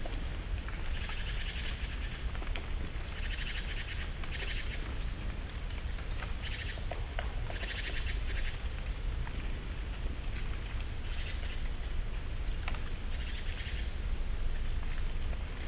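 Forest songbird giving short rattling, trilled calls, repeated every second or two, with a few faint ticks and a steady low rumble underneath.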